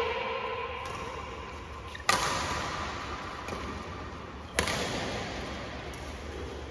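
Two sharp badminton racket strikes on a shuttlecock, about two and a half seconds apart, each ringing briefly in a large hall over a low background murmur.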